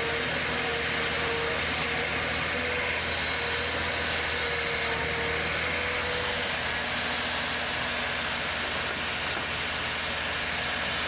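Heavy off-road vehicle engine running steadily, with a tone that fades out about six seconds in.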